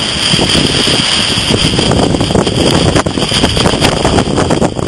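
Strong, gusty hurricane wind buffeting the microphone, over the noise of heavy surf breaking on the shore.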